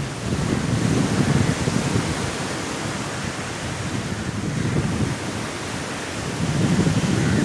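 Sea waves washing on a shore under strong wind: a steady rushing noise that swells about a second in and again near the end.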